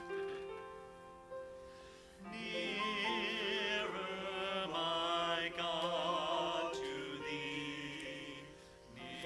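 Church offertory hymn with piano accompaniment: the piano plays alone at first, then about two seconds in a singing voice with strong vibrato comes in over it.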